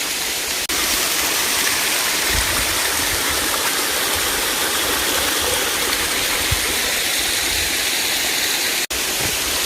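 Small waterfall with a low flow of water, falling and splashing in a steady rush close to the microphone. The flow is light because there has been little rain. There are brief low rumbles that sound like wind on the microphone.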